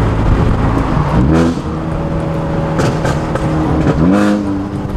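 Ford Focus ST's big-turbo 2.0 EcoBoost four-cylinder accelerating hard through the gears, heard from inside the cabin. The revs climb steeply twice after gear changes. With the blow-off valve removed, the lift-offs for the shifts let the turbo flutter, heard as short chattering bursts.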